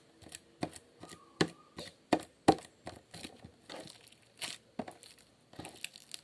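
Old slime gone wet and sticky being squeezed and pulled by hand, giving irregular sticky clicks and crackling pops.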